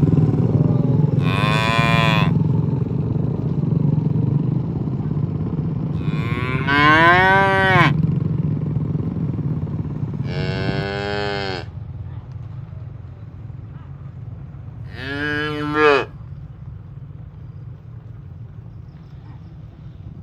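Cattle mooing: four separate long moos, each with a pitch that rises and falls, over a steady low rumble that fades about halfway through.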